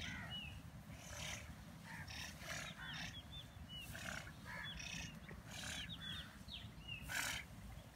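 Small birds calling in a crop field with short, hooked chirps, many times over, among brief rustling bursts and a steady low rumble.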